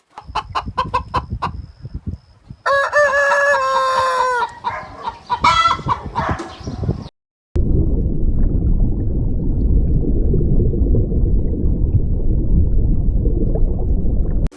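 Chickens: a run of quick clucks, then a rooster crowing in one long held call, then more calling. From about halfway a steady low rumbling noise takes over.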